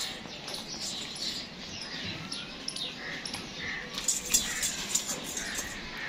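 Small birds chirping in short, irregular calls, mixed with sharp clicks, the loudest click about four seconds in.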